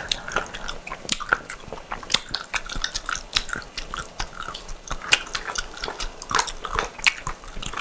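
People chewing grilled chicken with their mouths close to lapel microphones: a dense run of wet smacks and clicks, several a second.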